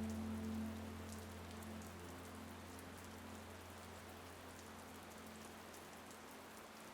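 Recorded rain, an even hiss with faint scattered drop taps, slowly fading out. A low held tone beneath it dies away with it.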